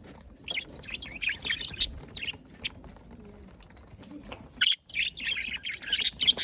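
Budgerigars chirping busily in rapid high bursts, with a quieter lull in the middle before the chatter picks up again.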